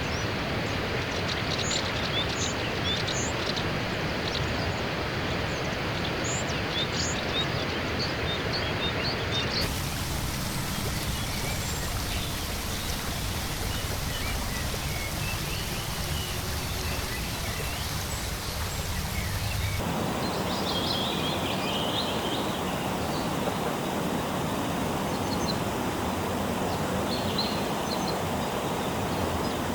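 Rainforest ambience: a steady rushing noise with many short bird chirps and calls over it. The background changes abruptly about ten seconds in and again about twenty seconds in.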